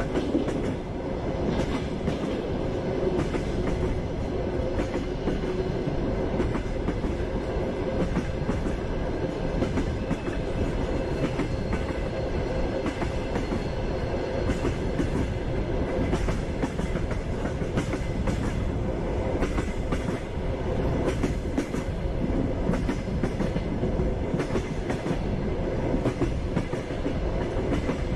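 Passenger train running steadily, its wheels clacking over the rail joints against a continuous rumble.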